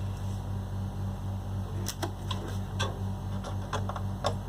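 Refrigerator compressor being set down onto its mounting studs in the fridge body: a handful of light, irregular clicks and knocks from about two seconds in, over a steady low hum.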